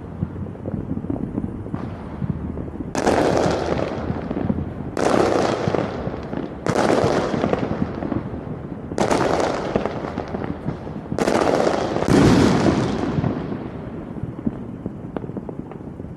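Fireworks going off: six loud bursts about every two seconds, each one dying away over a second or so.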